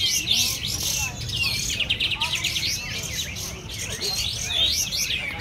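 A dense chorus of many songbirds calling at once, overlapping chirps, swooping whistles and fast trills with no pause. This is a kapas tembak (sooty-headed bulbul) contest recording.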